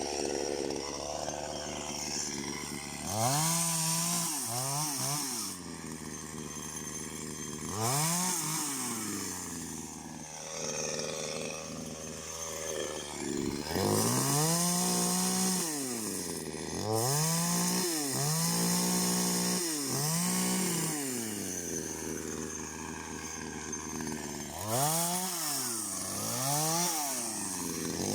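Two-stroke chainsaw engine revving up to a high whine and dropping back to idle, again and again.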